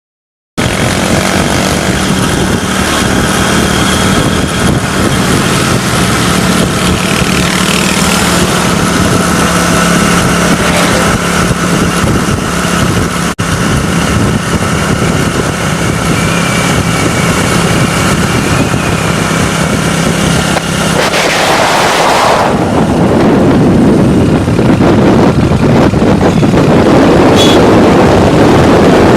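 Motorcycle engine running steadily while riding, with a steady low hum and a louder rushing noise joining about three-quarters of the way through.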